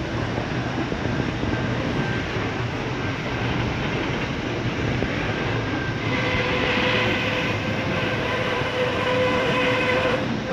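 Loaded coal train wagons rolling past on the rails, a steady heavy rumble of wheels and wagons. About six seconds in, a steady high ringing tone joins the rumble.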